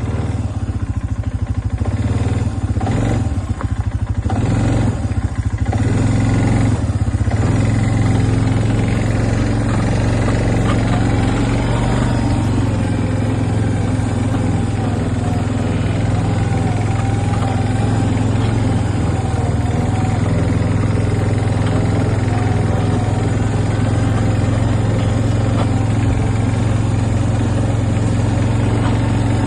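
Vehicle engine running steadily at an even, low speed while dragging the chicken tractor frame across the ground.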